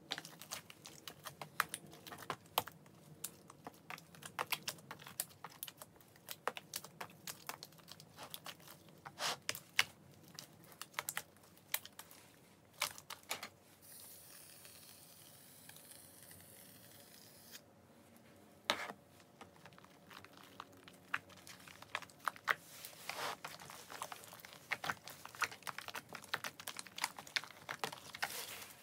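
A large batch of slime squished and kneaded by hand in a plastic tub: a busy, irregular run of sticky clicks, pops and squelches, with a few seconds of hiss about midway.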